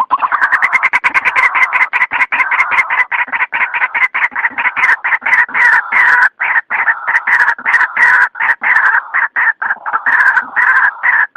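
White-breasted waterhen calling: a loud, fast, unbroken run of harsh repeated notes, several a second, that runs a little looser about halfway through.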